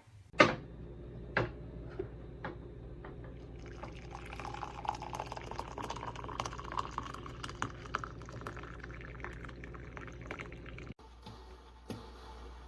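Hamilton Beach stainless steel electric percolator perking: water gurgling and bubbling with irregular small pops, building up after a few seconds, over a low steady hum. A sharp click sounds just after the start, and the sound cuts off suddenly near the end.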